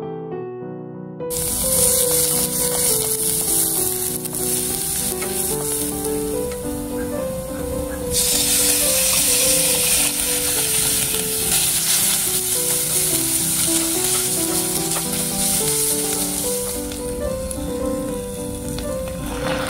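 Minced garlic and shredded chicken sizzling in hot oil in a stainless steel saucepan. The sizzle starts about a second in and grows louder about eight seconds in. Piano music plays throughout.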